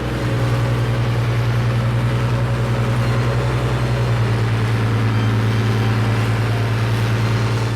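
Excavator's diesel engine running with a steady, loud, low drone.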